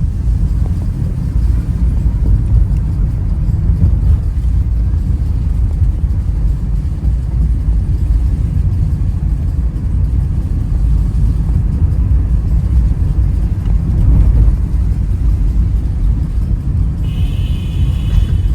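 Steady low rumble of a moving vehicle, heavy in the bass, with a brief high-pitched tone near the end.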